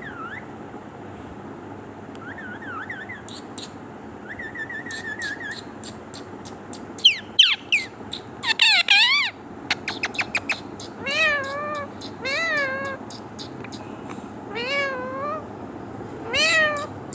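Pet parrot vocalizing: soft whistled glides and a run of clicks, then two loud calls, then a series of rising-falling calls that sound like a cat's meow, about one every second or so in the second half.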